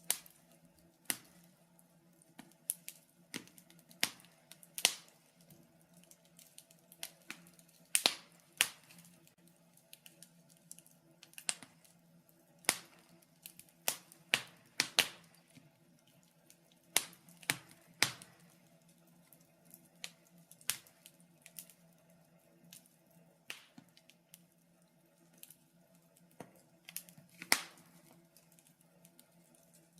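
Wood fire crackling, with irregular sharp pops and snaps, sometimes several close together, over a faint steady low hum.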